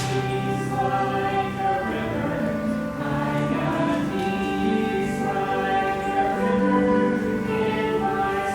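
Music: a group of voices singing together over an accompaniment, in held notes that change about once a second.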